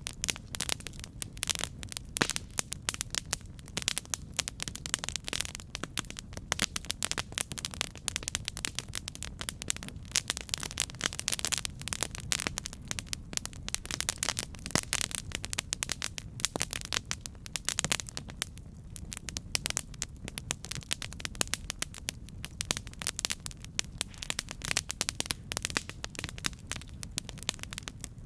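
Campfire burning, with dense, irregular crackles and pops over a steady low rumble.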